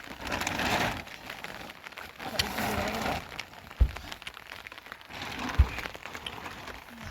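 Rain pattering with scattered small clicks and clatter, and two dull thumps about four and five and a half seconds in.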